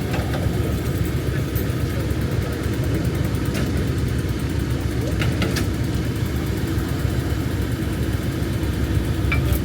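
Diesel locomotive engine running steadily with a low rumble, with a few short sharp clicks over it.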